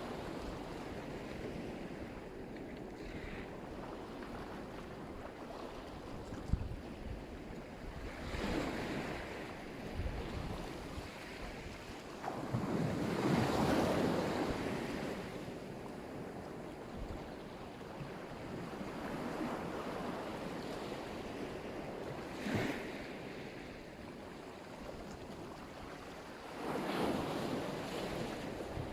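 Black Sea waves breaking on the shore: a steady wash of surf that swells every few seconds as waves come in, the biggest about halfway through.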